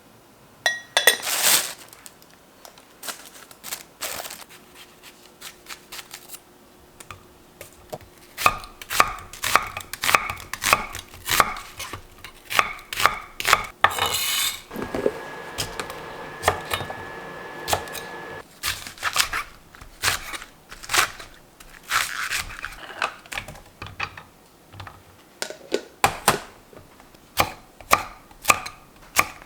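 Kitchen knife chopping on a cutting board, sharp strokes coming in runs of about two a second, with a few seconds of steady hiss in the middle.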